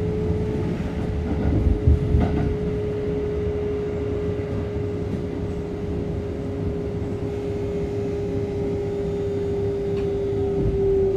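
Kintetsu 1220 series electric train standing with its doors open: a steady machine hum from its equipment starts up and keeps running, sinking slightly in pitch, over a low rumble heard inside the car. There are a couple of faint clicks about two seconds in.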